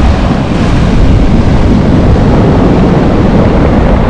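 Strong wind blowing hard on the microphone, loud and steady, over the noise of sea waves surging on the shore.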